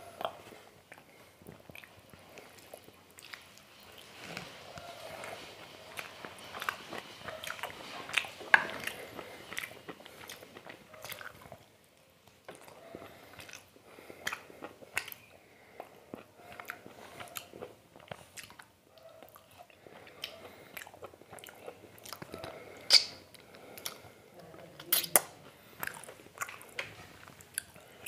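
Close-miked chewing and wet mouth sounds of a person eating mutton curry and rice by hand: soft smacking and sharp wet clicks, a few of them louder.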